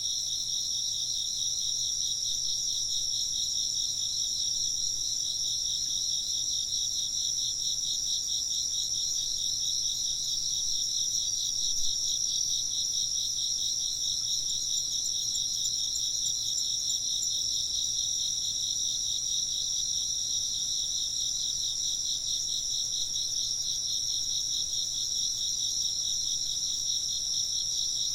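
Insects, crickets by their sound, chirping in a steady chorus: a continuous high trill over a lower line of rapid, evenly pulsed chirps.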